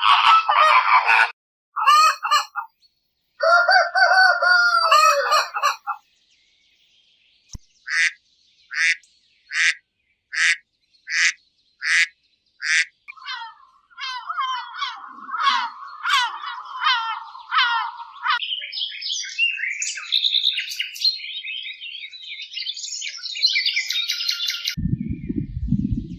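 Birds calling in a series of separate calls: a few loud calls in the first seconds, then a run of about eight evenly spaced calls, then continuous chattering and higher-pitched chirping that stop near the end.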